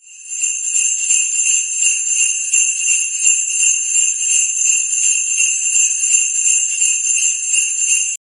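Jingle bells shaking steadily, fading in at the start and cutting off abruptly near the end: the jingle-bells sound effect of Bing's holiday homepage.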